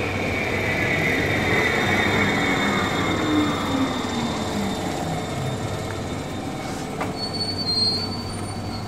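Talgo sleeper train rolling slowly on the rails, heard from inside the carriage, with a steady low hum under the running noise. A wheel squeal falls slowly in pitch over the first few seconds, a click comes about seven seconds in, and a brief high squeal follows near the end.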